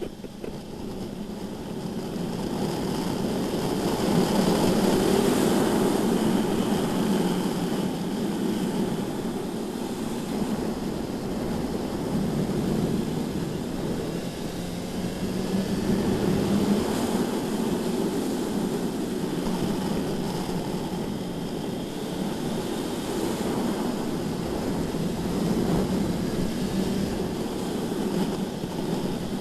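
BMW S1000RR sportbike's inline-four engine running under way, its note drifting slowly up and down over a steady rush of wind noise.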